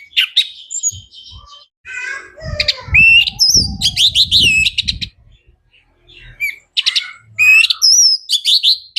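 Orange-headed thrush singing loud, varied phrases of quick rising and falling whistles and chirps, in three bursts with short pauses between. A low rumble lies under the middle burst.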